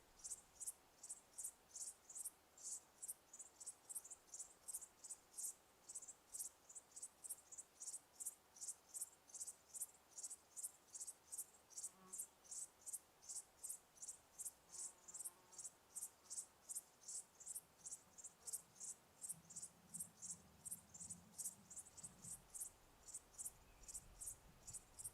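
Cricket chirping steadily in a regular, high-pitched rhythm of about two and a half chirps a second.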